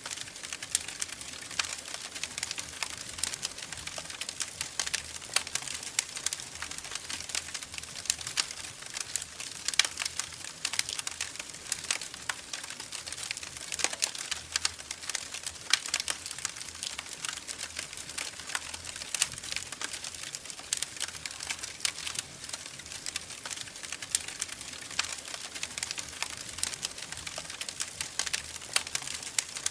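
Wood fire in a fireplace crackling: a dense, irregular run of sharp pops and snaps, some louder than the rest, over a soft hiss.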